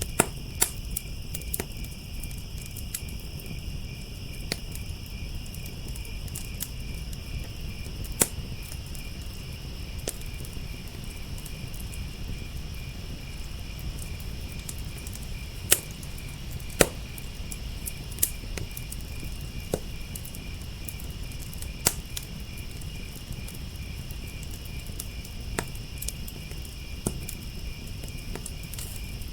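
Wood fire crackling, with sharp irregular pops over a low rumble, two of the loudest pops about halfway through; crickets chirp steadily in a continuous high trill.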